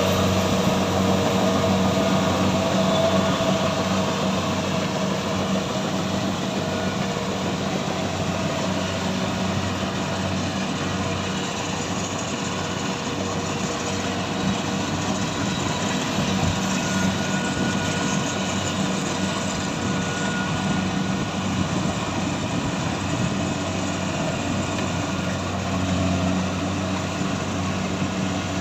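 A machine's engine running steadily: a constant hum with a noisy wash over it, unchanging throughout.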